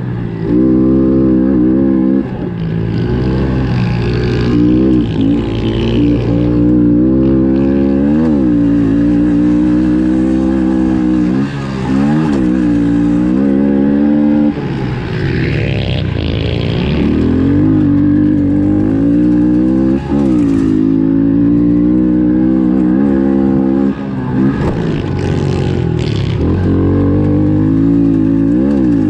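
Honda CRF110F pit bike's single-cylinder four-stroke engine racing under hard throttle, its pitch climbing and falling as the throttle is chopped and reopened several times through the corners.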